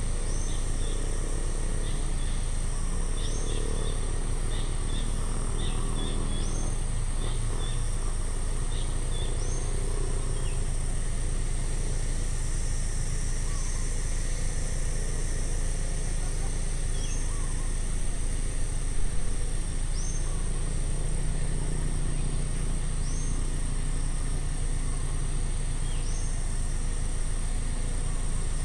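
Outdoor ambience: a steady high-pitched insect drone, with a bird repeating a short, high, rising-then-dropping call every few seconds and a flurry of small chirps in the first several seconds. A steady low rumble runs underneath.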